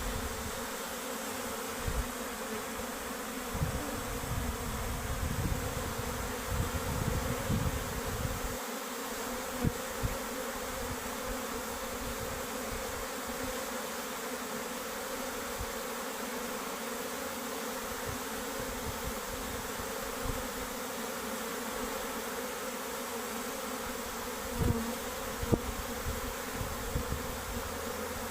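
Honeybees buzzing in a steady, continuous drone, with a few short low bumps scattered through.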